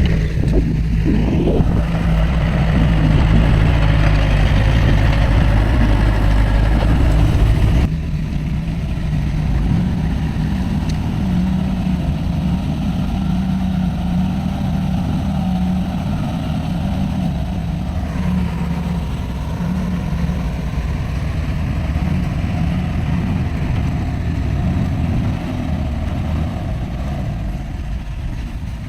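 Diesel engine of heavy earthmoving machinery running steadily, its sound changing abruptly about eight seconds in.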